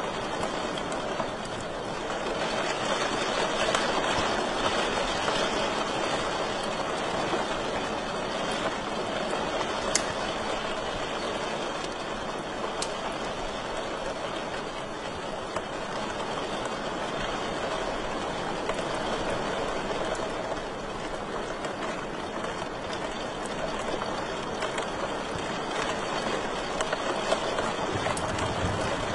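Wood fire crackling steadily in a fireplace, with a few sharper pops standing out.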